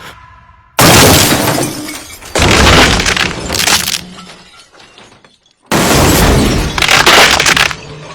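Car crash-test impacts with glass breaking: three loud sudden crashes, each dying away over a second or two.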